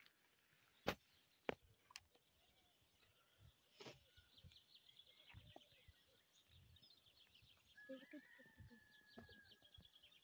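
Faint birdsong: runs of rapid high chirps and a held whistled note from small birds, over a quiet rural background. A few sharp knocks stand out in the first few seconds.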